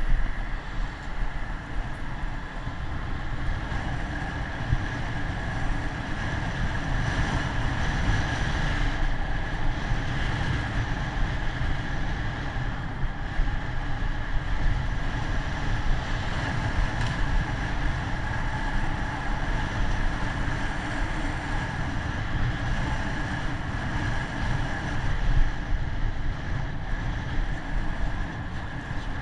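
Wind noise on the microphone during a bicycle ride: a steady rushing noise, heaviest in the low rumble, with a faint thin high tone running under it.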